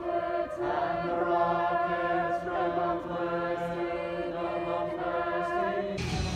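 A choir of voices singing long held notes in chorus, changing chord a few times. About six seconds in it cuts suddenly to a recorded pop song.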